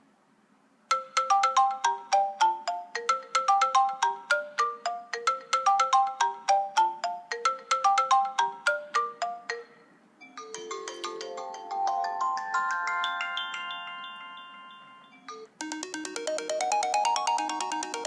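iOS 7 iPhone ringtones played one after another. After about a second of near silence comes a quick melody of short, sharp repeating notes. From about ten seconds a softer tune of held, layered notes fades away. From about fifteen and a half seconds a bright ringtone of rising runs of notes begins.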